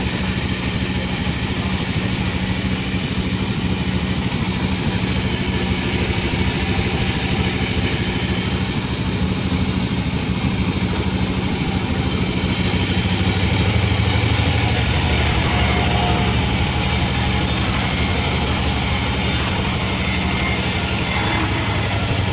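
Sawmill machine's engine running steadily with a low hum, which grows louder and gains a hiss about twelve seconds in.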